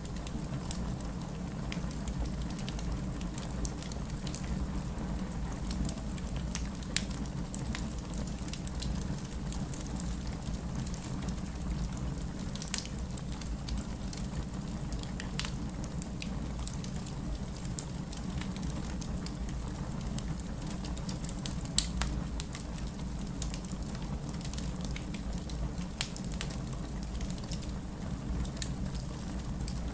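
Wood fire crackling in a fireplace: a steady low rumble of the burning flames with scattered sharp pops and snaps, the loudest about 22 seconds in.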